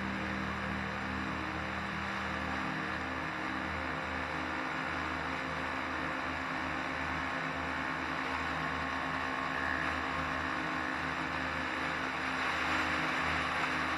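Vespa scooter engine running steadily while riding along, with road and wind noise.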